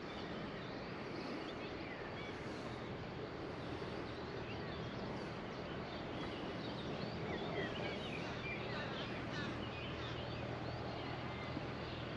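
Birds chirping and calling in short quick notes, over a steady low background noise.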